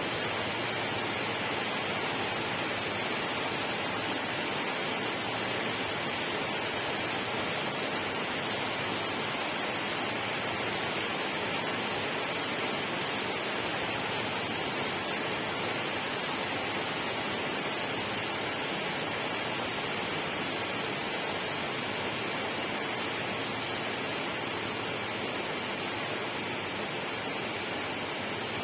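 Steady, unbroken rushing hiss with a faint high tone held steady through it, with no separate events.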